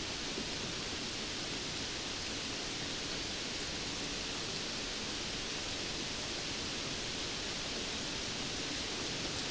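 Steady rainfall heard as an even, unbroken hiss, with no single drops or thunder standing out.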